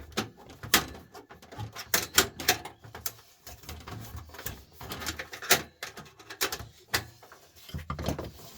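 Irregular clicks, knocks and rattles of metal and plastic parts being handled as a desktop computer's power supply is taken apart.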